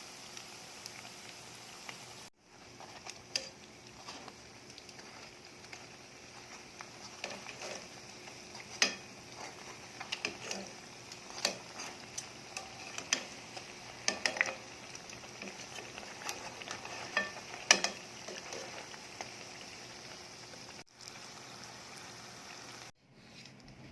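Turon (banana spring rolls) frying in hot oil: a steady sizzle, with occasional sharp clicks and taps.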